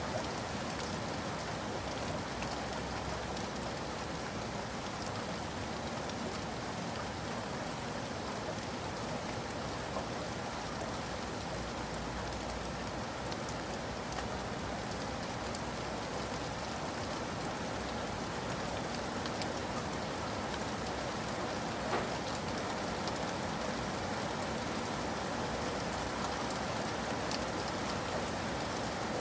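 Steady heavy rain falling on a surface, a dense even patter of drops with occasional louder single drops.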